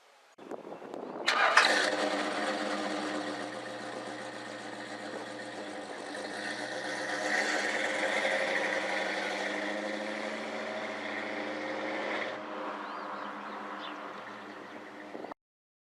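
An engine starting: cranking briefly, catching with a sudden loud burst, then running steadily with a swell in the middle before it cuts off abruptly near the end.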